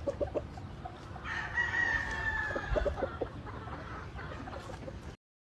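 A rooster crowing once, a long call of about two seconds, with short clucks from chickens just before and after it.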